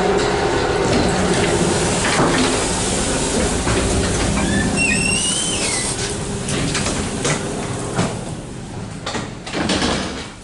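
Russian electric commuter train running past, a steady rumble and motor hum that fades away over the last few seconds. About five seconds in there is a brief high squeal that wavers in pitch, and a few knocks follow as the train recedes.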